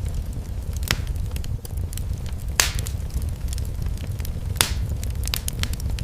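Wood fire crackling in a fireplace: a steady low rumble of flames with scattered pops and snaps, three of them louder, the first about a second in.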